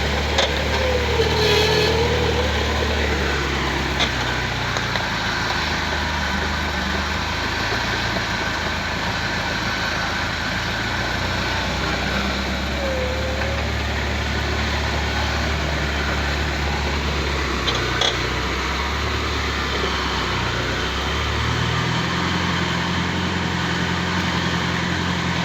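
Truck engine running steadily on a rough road, its pitch stepping up near the end, with a few faint knocks.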